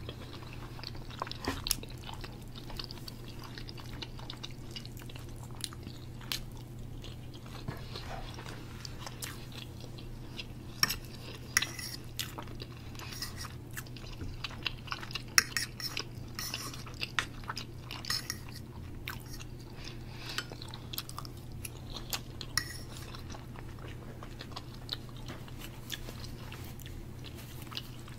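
Close-up chewing and mouth sounds of a person eating, with scattered sharp clicks of a fork against the plate, over a faint steady low hum.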